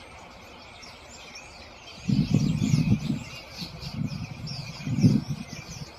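A large flock of birds chirping and calling all at once, a dense steady chatter. About two seconds in a low rumble swells up in a few waves, louder than the birds, and fades out after about five seconds.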